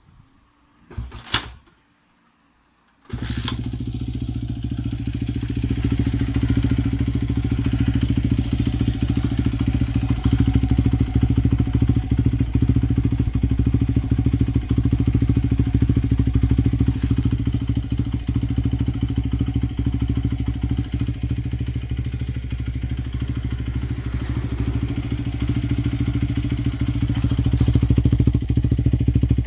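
Honda Ape 80's single-cylinder four-stroke engine starting about three seconds in and then idling steadily through a Yoshimura Cyclone aftermarket exhaust.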